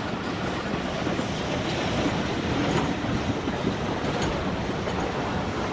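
Steam-hauled train running along the line: a steady noise of wheels and running gear on the rails, with no clear exhaust beat.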